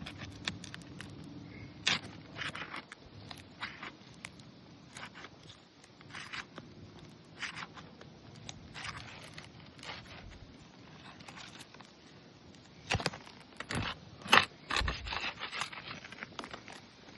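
Brittle asphalt roof shingles being handled and worked loose, giving irregular scraping and crackling clicks, with a denser, louder flurry about three-quarters of the way through. The shingles are shedding granules.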